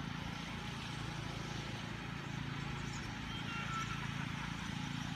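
Engine of a riding lawn tractor running steadily at a distance, a low even putter.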